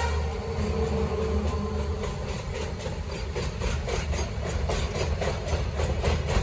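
A long train passing, its wheels clacking over the rail joints in a quick, regular rhythm over a steady low rumble.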